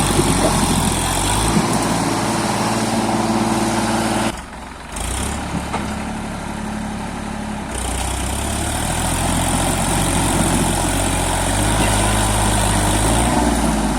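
New Holland 3037 tractor's three-cylinder diesel engine running under the load of a trolley fully loaded with stone. The engine note steps between speeds several times, and the sound dips for about a second about four seconds in.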